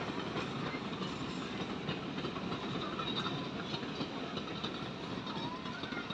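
A heritage railway train running on the track: a steady rumble and rattle from the wheels and carriages.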